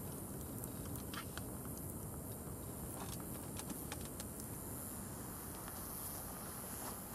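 Wood fire burning in a woven stainless-steel fire stand, crackling with scattered sharp pops over a steady rushing background.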